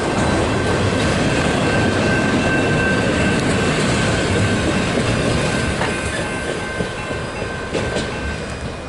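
Freight train cars rolling past at close range: a steady rumble of steel wheels on rail with some clickety-clack, and a thin, steady high-pitched wheel squeal that stops shortly before the end. The sound eases slightly toward the end.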